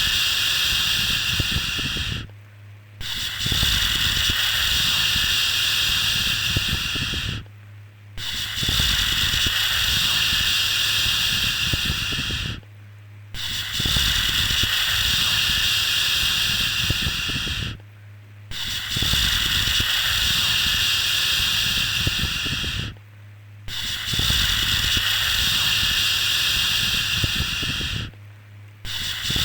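A long, steady 'shhh' shushing sound, repeated about every five seconds with a short break between each, played to lull a baby to sleep. A faint low hum runs underneath and can be heard in the breaks.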